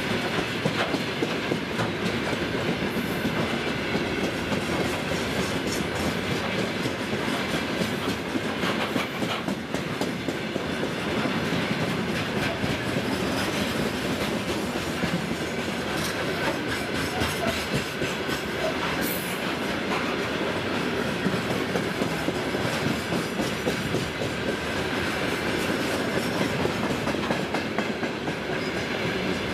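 Freight train of open gondola wagons rolling past, the wheels clattering steadily over the rail joints with a continuous rumble.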